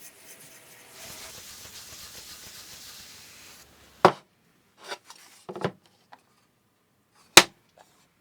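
Wooden box being handled: a soft rubbing or sliding for a couple of seconds, then sharp wooden clacks, one loud one about four seconds in, a few smaller knocks, and another loud clack near the end.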